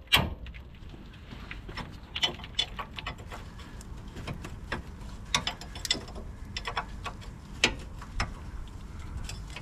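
Hand tools working on metal car parts: irregular sharp clicks and clinks, a few each second, like a ratchet spanner on suspension bolts.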